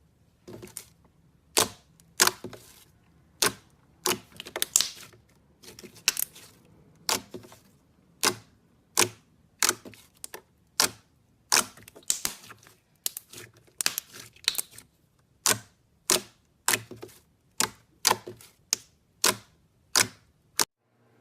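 Slime being worked by hand, its trapped air popping in sharp clicks at an irregular pace of about one to two a second.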